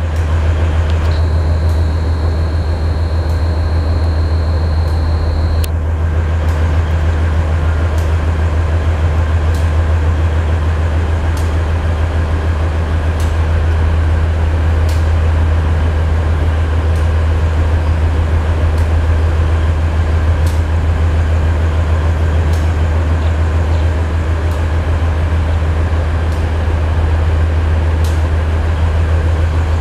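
Passenger train running slowly over station trackwork, heard on board: a steady low rumble with sharp clicks every second or two as the wheels cross rail joints and points. A thin high whine starts about a second in and stops after about five seconds.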